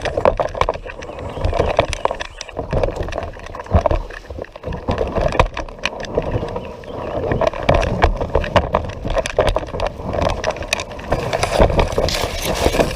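Kayak moving through shallow river water: continuous splashing and rushing water with frequent knocks and scrapes of the hull.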